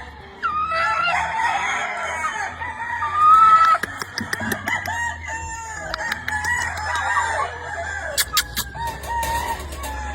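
Several gamefowl roosters crowing over one another, with hens clucking among them; the loudest crow comes about three seconds in. Sharp clicks sound near the end.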